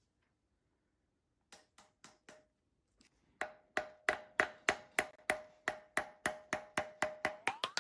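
Three light knocks, then an even run of sharp metallic-sounding strikes, about three a second, over a steady ringing tone; near the end the tone begins to rise in pitch.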